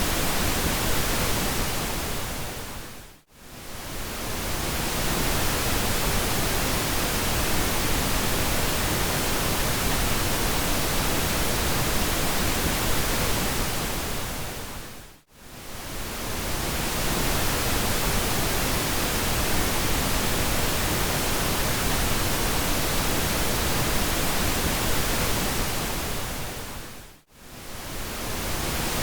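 Steady pink noise, an even hiss. Three times, about every twelve seconds, it fades down almost to silence and swells back within a second or two.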